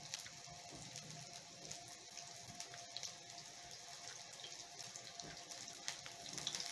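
Faint, steady sizzle with small crackles from Nile perch fish patties frying in oil in a nonstick pan, over a faint steady hum.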